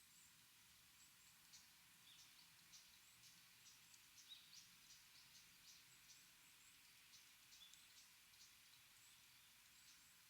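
Small birds giving many short, high-pitched chirps and chips in quick irregular succession, faint over a soft steady hiss.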